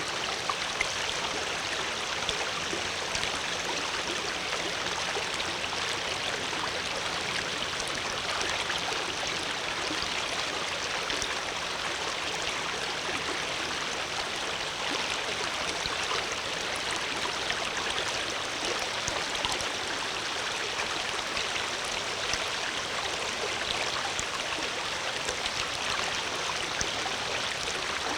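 Water flowing steadily in a stream, an even rushing with small splashes and trickles running through it.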